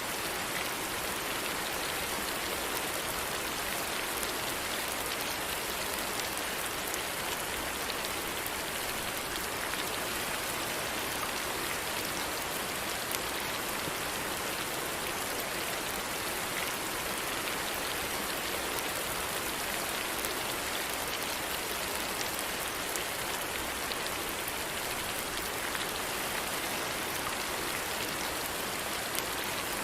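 Steady rain falling, an even hiss with scattered drop ticks that holds unchanged throughout.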